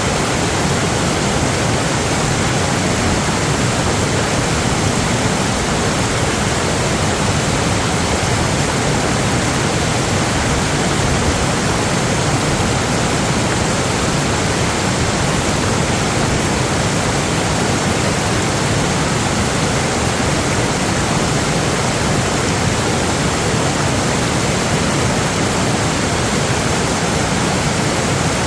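Loud, steady rush of water with no breaks or changes.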